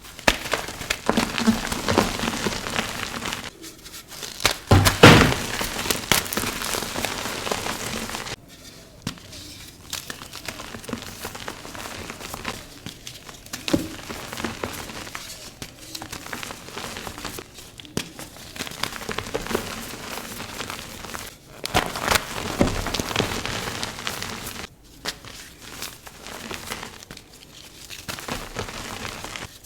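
Gray gym chalk blocks coated in Holi powder being crushed, a run of crunching and crackling with crumbling powder between the crushes. The loudest crush comes about five seconds in.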